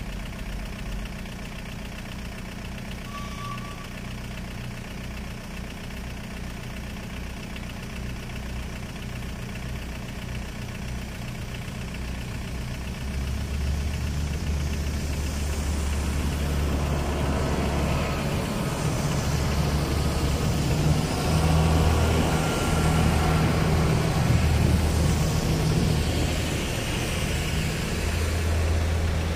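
A passenger train passing over the level crossing. Its rumble grows from about halfway through, and a hissing wheel-on-rail noise is loudest near the end. Under it, a car waiting at the lowered barriers idles steadily.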